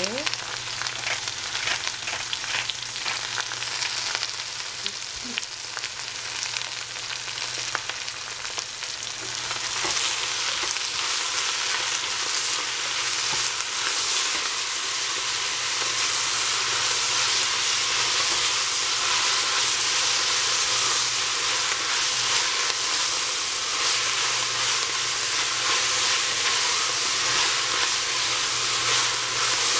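Leftover salad vegetables sizzling in cooking oil in a stainless steel pot as they are stir-fried with a wooden spatula. The sizzle grows louder about ten seconds in and then stays steady.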